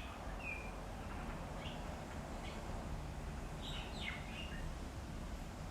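Birds chirping: a few short, high calls scattered over steady low background noise, with a small cluster of calls about four seconds in.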